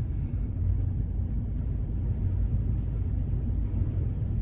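Ferocious high wind blowing over the hilltop, a steady low rumble of buffeting against the microphone.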